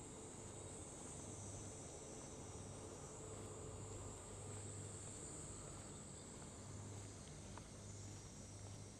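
Insects trilling in a steady, continuous high-pitched chorus, with a faint low hum underneath.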